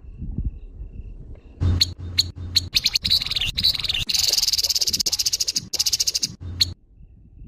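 Grey-headed babbler (tepus kepala abu) giving its harsh calls. A few sharp separate notes about two seconds in lead into a long, fast, dry rattle, which breaks off near the end.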